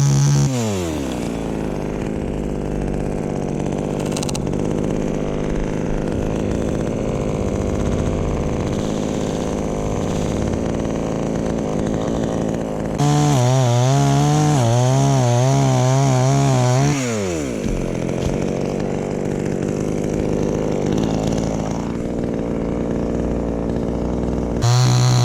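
Two-stroke chainsaw revving hard, then dropping to idle within the first second. About 13 seconds in it revs up again for about four seconds, the pitch wavering up and down, then falls back to idle. It revs once more near the end.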